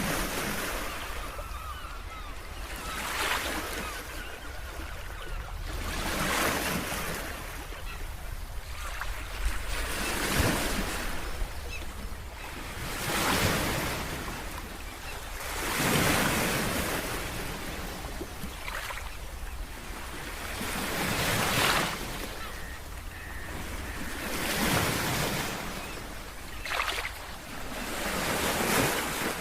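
Ocean waves breaking and washing on the shore, one surge of surf swelling and fading about every three seconds over a steady low rumble.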